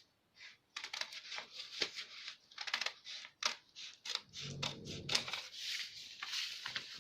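Scissors cutting through a paper blouse pattern along the boat-neck curve: a run of short, irregular crisp snips.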